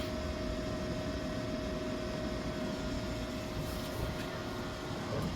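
Steady hum and whir with a constant tone from a small Keurig single-serve coffee maker heating water on battery power, drawing about 1400 watts during the heat-up.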